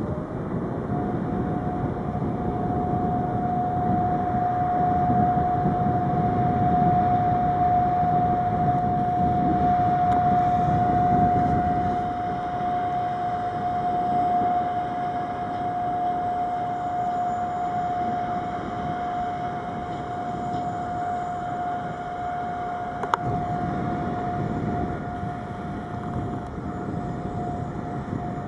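A train rolling through a railyard: a rumble of wheels on track, strongest in the first half, with a steady high whine held throughout and one sharp click about 23 seconds in.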